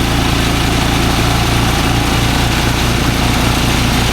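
Portable engine-driven rice threshing machine running steadily under load, a continuous small-engine drone with the threshing drum turning.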